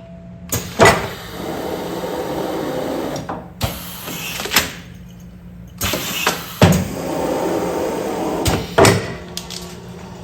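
Automatic food-container sealing machine running through its sealing cycle: sharp clunks of the mechanism with stretches of steady machine running between them, the pattern repeating about every six seconds over a constant low hum.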